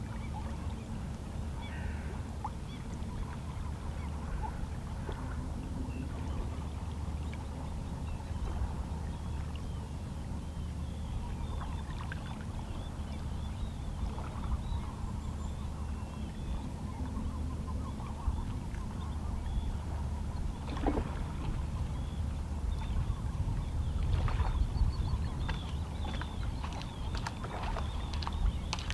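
Small, calm sea waves lapping and splashing against shoreline rocks: a steady low wash with many little splashes, swelling a little about three-quarters of the way through. Faint calls of distant seabirds come through now and then.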